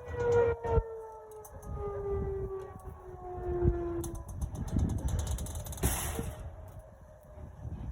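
Outdoor tornado warning siren wailing, its pitch falling slowly over about four seconds as it fades out. Low rumbling noise runs underneath, with a short loud burst of noise about six seconds in.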